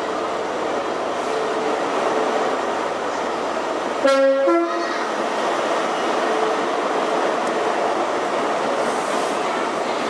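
Great Western Railway Class 43 HST power car running close past along the platform, its horn sounding briefly in two notes, the lower first, about four seconds in. The train's coaches then roll past with continuous wheel and rail noise.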